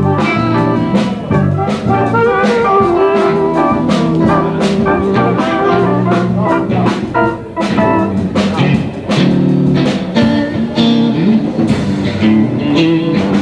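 Live blues band playing, with guitar over bass and a drum kit keeping a steady beat.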